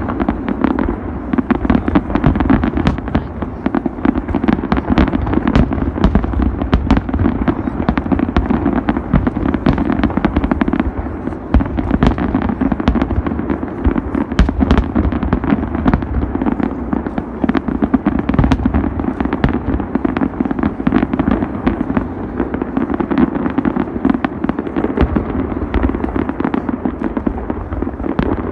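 Large fireworks display: a dense, unbroken barrage of shell bursts and crackling reports, many each second, over a steady low rumble.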